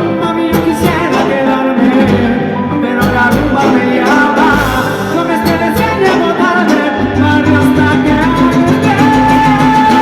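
Salsa orchestra playing live: a full band with percussion keeping a steady dance rhythm under sustained melodic lines.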